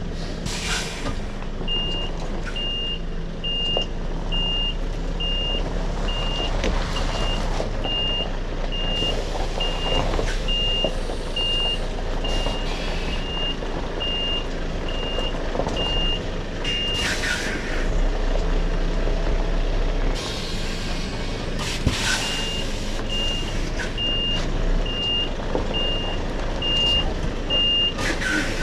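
Reversing alarm of an articulated lorry beeping about one and a half times a second over the truck's low-running diesel engine. The beeping stops for a few seconds in the middle and then starts again. Short hisses of air come several times, the loudest as the beeping stops and again as it resumes.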